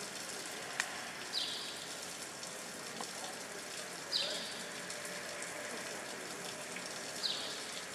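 Steady outdoor background hiss with a short high chirp falling in pitch, a bird's call, heard three times about three seconds apart; a sharp click just under a second in.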